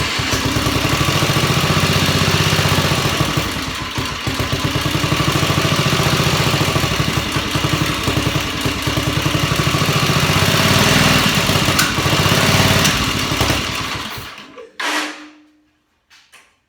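A Craftsman lawn tractor's engine is being cranked on its electric starter in a start attempt. It makes a loud, fast, steady pulsing for about fourteen seconds, then stops. Two short bursts follow near the end.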